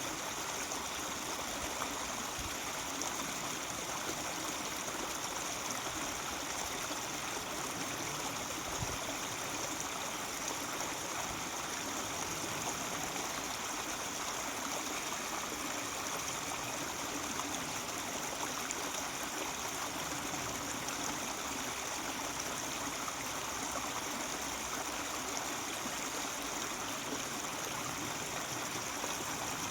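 A mountain stream flowing and murmuring steadily over rocks, an even rushing with a trickling edge.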